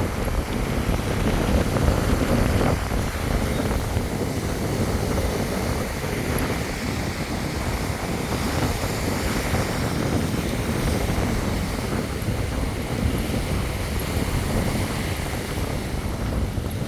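Wind buffeting the microphone, a steady low rumble over the wash of surf.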